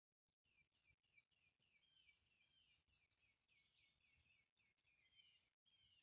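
A faint songbird singing a long, even series of quick down-slurred whistled notes, about three a second.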